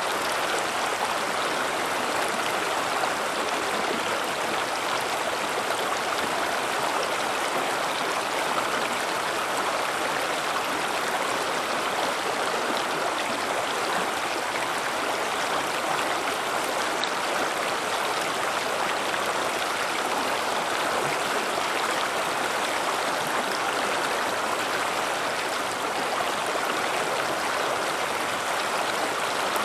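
River water flowing and rushing over rocks, a steady rush with no pauses.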